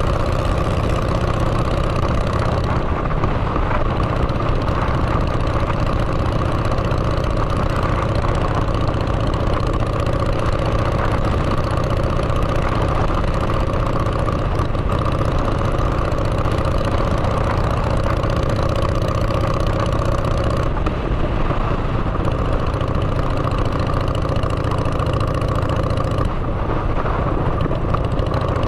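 Motorcycle engine running through open drag-pipe exhausts at a steady riding speed, mixed with wind noise. The engine note holds steady, changing slightly a few times.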